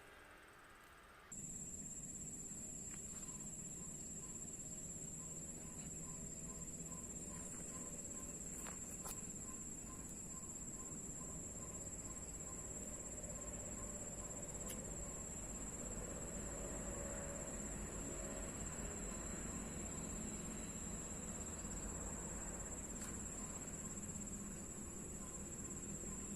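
Insects shrilling in one steady, unbroken high-pitched drone, starting suddenly about a second in, with a low rumble underneath.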